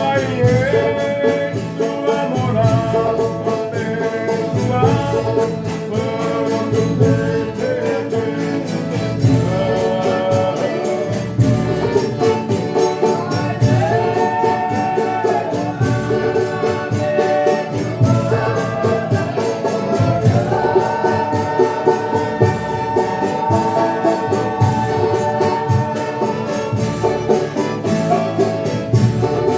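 Folia de Reis group singing a traditional Brazilian song of thanks for a meal, several voices holding long melodic lines over string accompaniment and a steady percussion beat.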